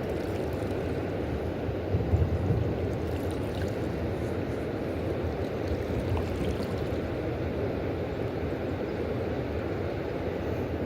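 Steady rush of fast river water below a dam, with a few soft knocks about two seconds in.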